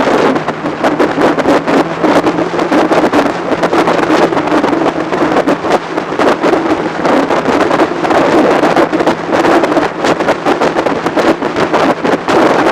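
Heavy wind buffeting on a motorcycle-mounted action camera's microphone while riding at speed, with the motorcycle's engine holding a steady hum underneath.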